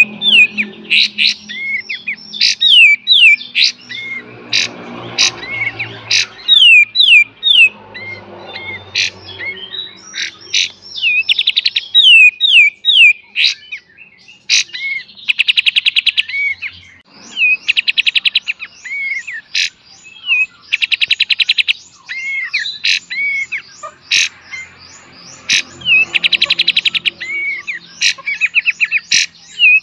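Kapas tembak songbird singing: quick runs of sharp, falling whistled notes. In the second half these are broken several times by fast rattling trills about a second long, the 'beset' calls.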